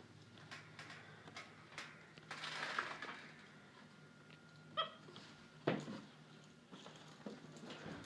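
Capuchin monkey giving a short squeaky chirp about five seconds in, amid faint knocks and a brief rustle.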